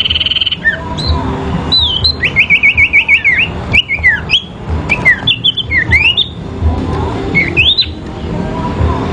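A caged songbird of the kind called sirpu singing a fighting-style song: a quick run of about eight sharp repeated notes, then fast whistled sweeps rising and falling, ending in rising notes near the end. A buzzing trill cuts off just after the start, and a low rumble runs underneath.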